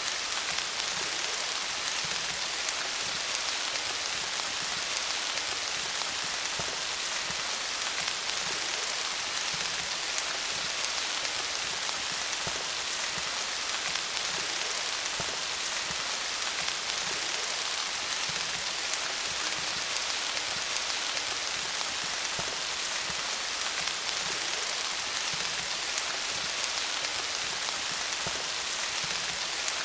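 Steady rain falling on leaves: a dense, even patter of drops hitting foliage.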